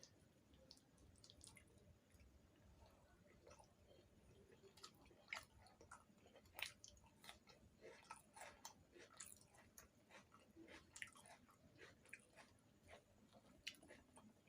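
A person chewing and eating puri with spiced potato curry, quiet, irregular smacking and clicking mouth sounds close to the microphone.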